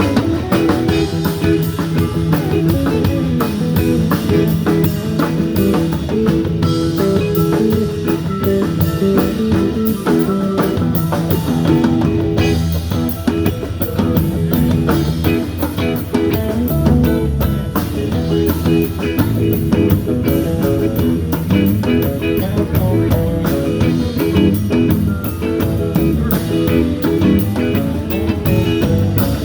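Band playing a blues-rock number: guitar over a drum kit keeping a steady beat on the cymbals.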